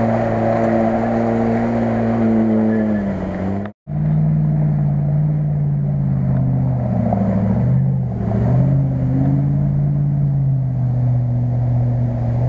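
Off-road 4x4 engine running steadily under load, its pitch swinging up and down a few times as the throttle changes. The sound cuts out abruptly for a moment about four seconds in, then the engine resumes.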